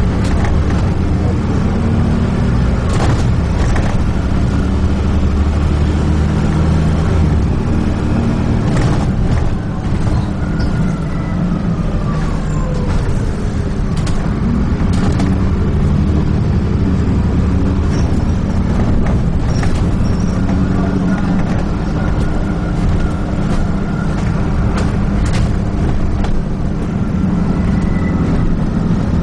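Dennis Trident 2 double-decker bus heard from inside while under way. The engine hums steadily with occasional knocks and rattles from the body, and its note glides down in pitch for a couple of seconds roughly midway.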